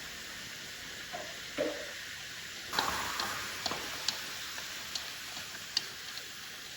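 Food sizzling in hot oil, starting suddenly about three seconds in and easing off, with scattered crackling pops.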